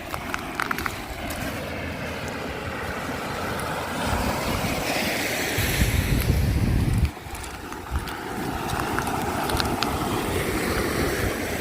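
Surf washing on a beach with wind buffeting the microphone: a heavy gust about halfway through that cuts off suddenly.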